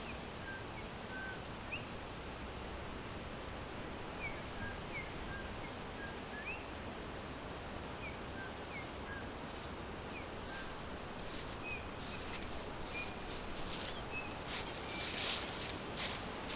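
Small birds chirping: short, quick high notes scattered at irregular intervals over a steady hiss of forest background noise, with a few rustling sounds near the end.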